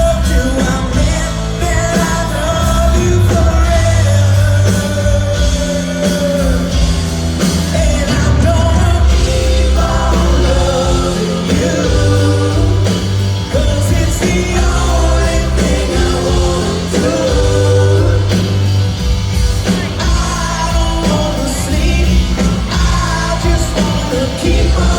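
Live rock band playing a power ballad: drums, bass and guitars with a sung melody over them.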